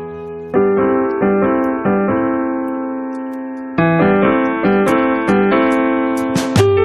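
Piano playing chords in an instrumental passage of a live worship song: a few chords struck in quick succession, one held for a couple of seconds, then a new run of chords.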